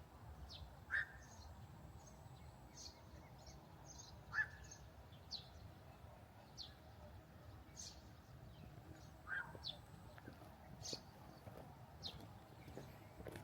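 Small birds chirping in short, scattered notes, with three louder, lower calls standing out, over a faint steady hiss.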